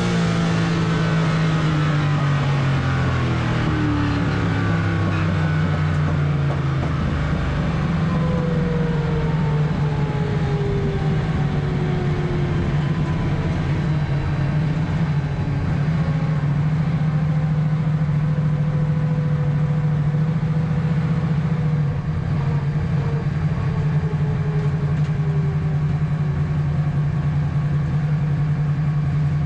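A motor vehicle's engine running steadily. Its pitch falls over the first several seconds as it slows, then it holds a steady low drone.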